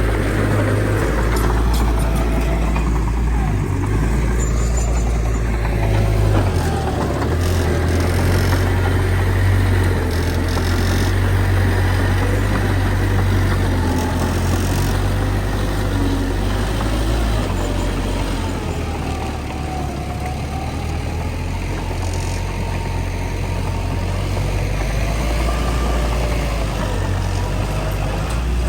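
Heavy earthmoving machinery's diesel engine running steadily at work: a constant low drone with faint wavering higher tones over it, easing a little for a few seconds past the middle.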